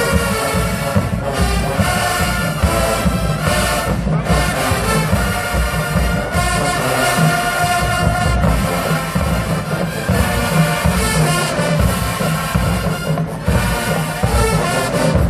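A full HBCU marching band playing loudly: massed brass horns over heavy drums, with no let-up.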